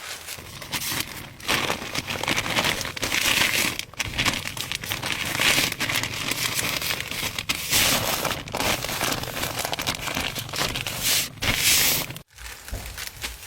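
Crinkling and rustling in repeated loud bursts, like dry material being crumpled and handled, stopping abruptly about twelve seconds in.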